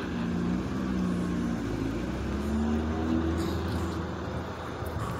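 Car engine running, its pitch rising about two seconds in, then easing off near the end.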